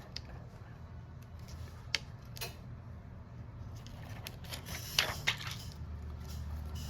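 Scattered light clicks and taps of small tools and phone parts handled on a repair bench over a low steady hum. The sharpest come about two seconds in and twice close together around five seconds in.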